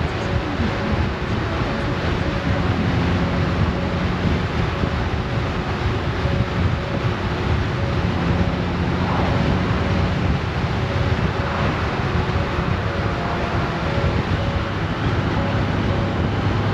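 Honda Gold Wing's flat-six engine running steadily while riding, under heavy wind noise on the microphone.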